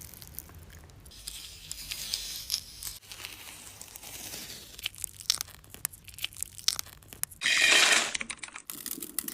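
Crinkling and tearing sounds with scattered sharp clicks, then a loud rushing hiss lasting about a second near the end.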